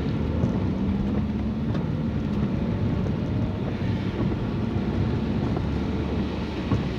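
Car being driven on wet roads: steady engine hum and tyre and road noise, with a brief knock near the start and another near the end.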